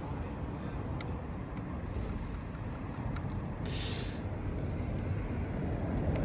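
Steady low outdoor rumble of wind and distant traffic, with a few faint clicks and a short hiss a little past halfway.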